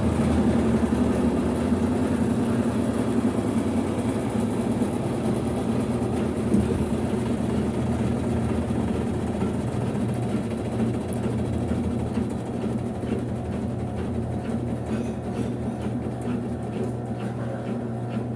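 Brastemp 5 kg washing machine running, a steady motor hum with mechanical noise that slowly gets a little quieter.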